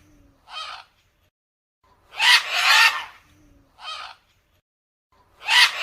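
A harsh animal call, a long one followed by a short one, repeated the same way about every three seconds.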